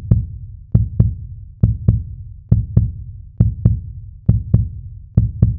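Heartbeat sound effect: pairs of deep thumps in a steady rhythm, a pair a little under once a second.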